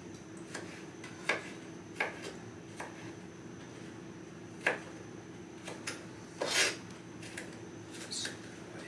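Kitchen utensils and dishes clinking and knocking: a handful of separate sharp clacks, with a longer scraping rattle about six and a half seconds in, over a faint steady hum.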